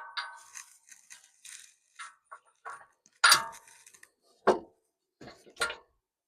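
Steel bumper pieces and bolt hardware being handled and fitted: a run of metal clinks and clanks, several ringing briefly, the loudest a little after three seconds, with sharper knocks near four and a half and five and a half seconds.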